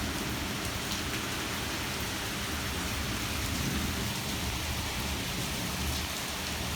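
Heavy rain pouring steadily in a severe thunderstorm, with a low rumble of thunder underneath.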